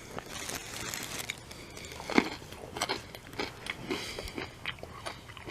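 A person chewing a raw baby carrot close to the microphone: irregular crunchy bites and crackles.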